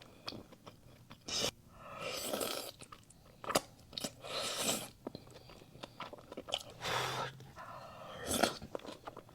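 A person biting and chewing food close to the microphone: a series of separate chewing bursts with a few sharp clicks between them.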